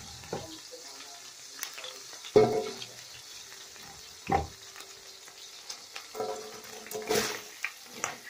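Chopped onion and garlic sizzling in hot oil in a pan, with a steady high hiss. Several sharp, ringing clanks of a utensil against the pan come through as the vegetables are stirred, the loudest about two and a half seconds in.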